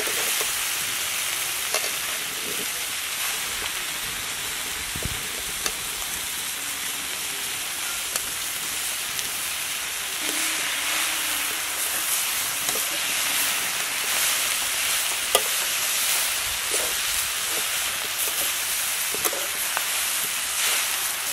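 Leafy greens sizzling steadily in a steel kadai over a wood fire, with a metal spatula scraping and clinking against the pan now and then as they are stirred.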